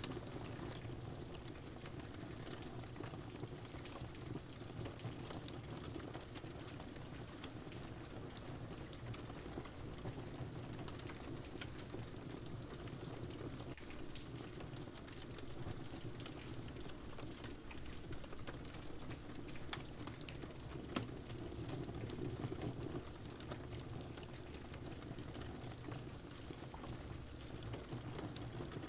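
Wood fire crackling with many small pops over a steady hiss of rain, with a few louder pops about two-thirds of the way through.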